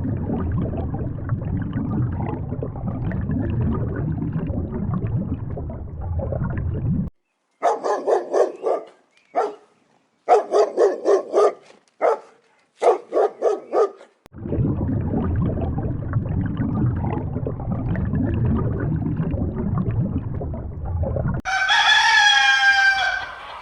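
Chicken sounds: several runs of short, quick clucking calls in the middle, then a rooster crowing once, about two seconds long, near the end. Before and after the clucking there is a low, steady rumbling noise.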